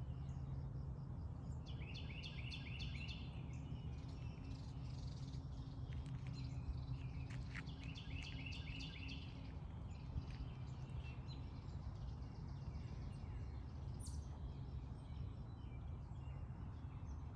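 Birds chirping over a steady low hum, with two runs of quick repeated high notes about two and eight seconds in and scattered fainter chirps in between.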